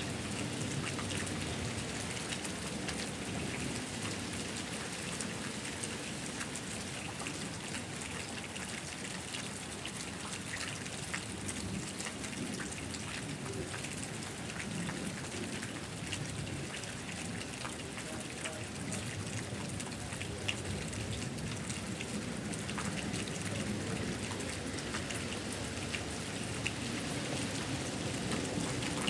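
Pouring rain falling steadily, with many individual drops ticking close by.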